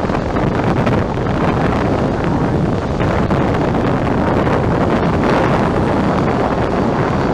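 Wide-body jet airliner's engines running loudly as it passes, a steady rumble with wind buffeting the microphone, and a faint high whine coming in about five seconds in.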